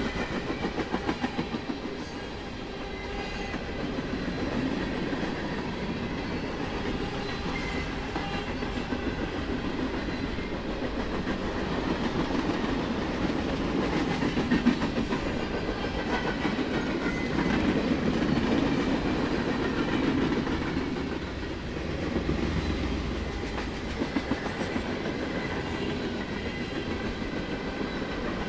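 Norfolk Southern freight train's cars rolling past: a steady rumble of steel wheels with rapid clickety-clack over the rail joints.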